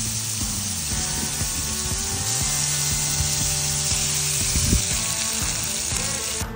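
Flour-dredged gator bites and frog legs sizzling steadily in hot oil in a cast-iron skillet, with a louder knock a little after halfway.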